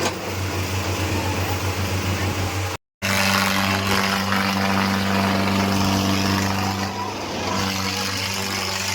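Tractor diesel engine running with a pulsing beat, cut off abruptly about three seconds in, then back as a steadier, slightly louder engine note.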